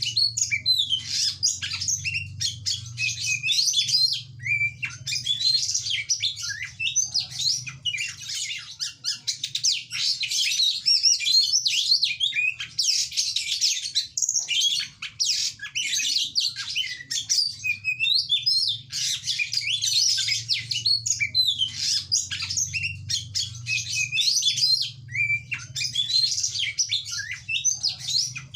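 Oriental magpie-robin (kacer) singing vigorously in a long, fast, varied run of whistles, trills and harsh chattering notes, broken only by brief pauses. A faint steady low hum sits underneath.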